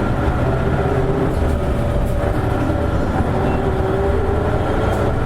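Interior running sound of an Isuzu Erga city bus (KL-LV280N1) under way just after pulling away from a stop: a steady diesel engine drone with road rumble, its pitch shifting a little as it drives.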